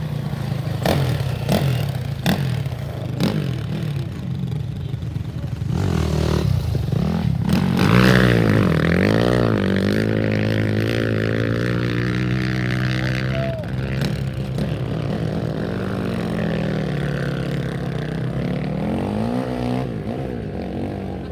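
Off-road race vehicle engines revving and passing by, their pitch rising and falling repeatedly, loudest about eight seconds in.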